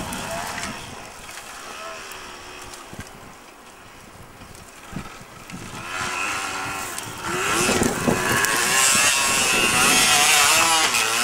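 Yamaha DT 125 two-stroke single-cylinder engine revving as the bike is ridden off-road. It is faint at first, then much louder from about seven seconds in, its pitch rising and falling with the throttle.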